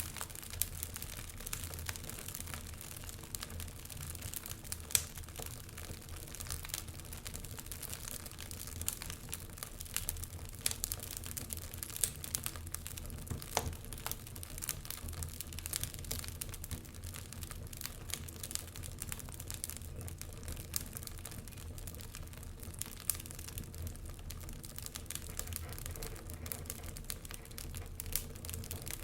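Wood fire crackling, with many small snaps and a few louder pops, over a low steady hum.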